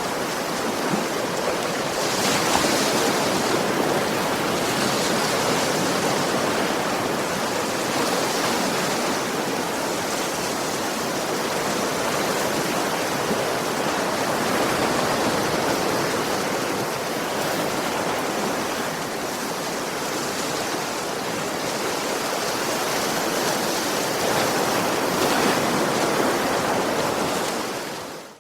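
Ocean waves washing onto a shore: a continuous rush of surf that swells every few seconds, fading out abruptly at the end.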